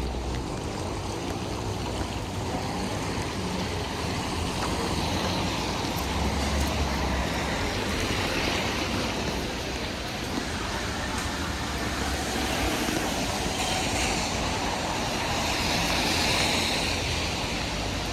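Wet-street traffic noise in the rain: a steady hiss that swells twice as vehicles pass on the wet road.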